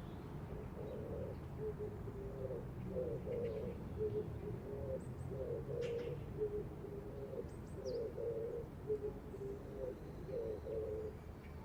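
Pigeon cooing: low coos repeated in phrases throughout, over a steady low rumble, with a few faint high chirps from small birds.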